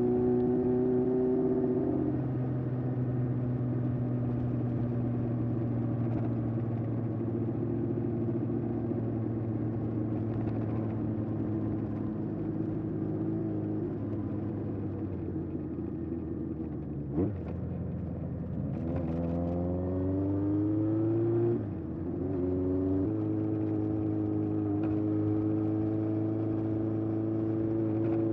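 1981 Honda CB750F's air-cooled inline-four running through a period Yoshimura exhaust while riding. The note holds steady, falls about two seconds in, then after a sharp click climbs as the bike accelerates, dips suddenly at a gear change, and climbs again before settling into a steady cruise.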